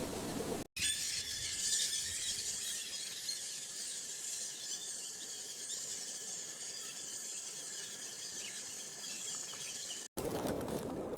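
Rainforest ambience with a steady, high-pitched chorus. It cuts in abruptly less than a second in and cuts off abruptly about a second before the end. Lower rushing noise fills the short stretches before and after it.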